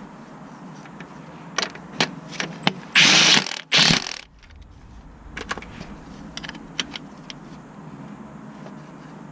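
Mechanic's tools clinking and knocking during work on a car, with two short, loud hissing bursts about three seconds in.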